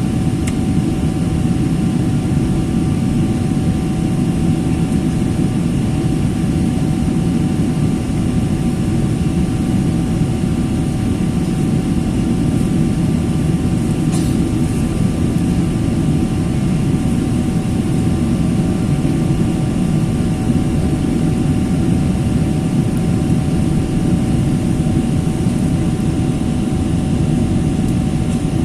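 Steady jet airliner cabin noise: a constant low rumble of engines and rushing air with a faint steady hum, and a brief light tick about halfway through.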